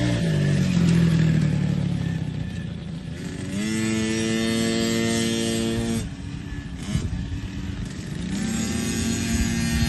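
Small KTM kids' motocross bike engine revving. The pitch climbs about three and a half seconds in, holds high for a couple of seconds and drops off, then climbs again near the end.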